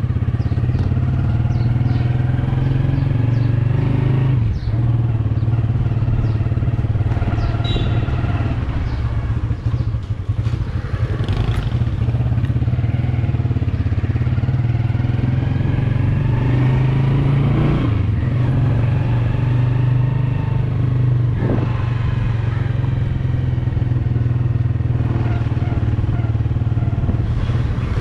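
Yamaha YBR 125G's single-cylinder four-stroke engine running steadily on the move, the note briefly dropping twice.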